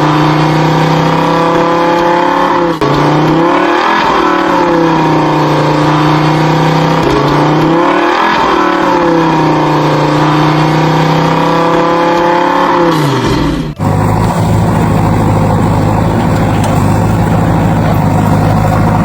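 A vehicle engine running and revving, its pitch sagging and climbing back several times. About fourteen seconds in it cuts suddenly to a steady, lower engine drone.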